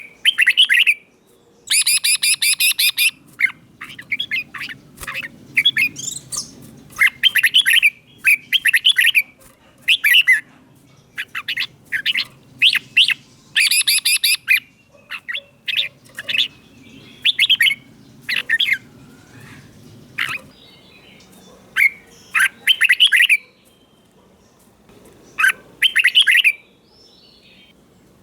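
Red-whiskered bulbul singing in quick, chirpy phrases with short pauses between them. A longer, harsher buzzy phrase comes about two seconds in. A faint low rumble runs underneath.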